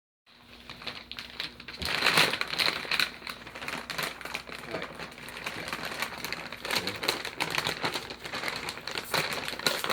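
Gift-wrapping paper crinkling and tearing in irregular handfuls as it is pulled off a present, loudest about two seconds in.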